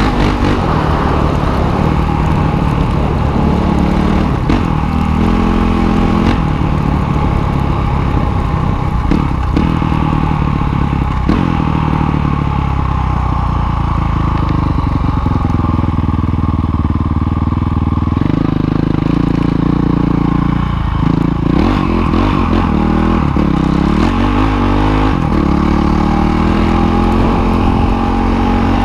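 Dirt bike engine running under way, its pitch rising and falling over and over with the throttle.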